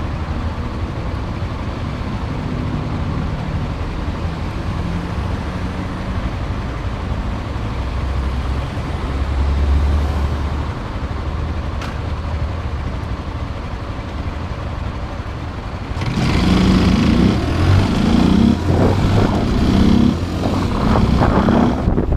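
Motorcycle engine running while riding in city traffic, its low note shifting in steps. About three quarters of the way in it gets louder, with wind rushing over the microphone.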